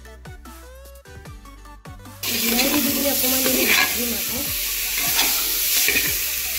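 Music with a beat for about two seconds, then a sudden cut to chicken and tomato masala sizzling loudly in hot oil in an aluminium pressure-cooker pot. A metal spatula scrapes and clinks against the pot as it stirs, and the beat carries on faintly underneath.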